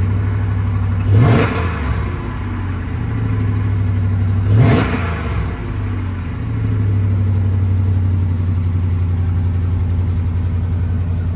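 Ex-police Dodge Charger engine just after a cold start: two quick throttle blips, about a second in and again about four and a half seconds in, then a steady idle.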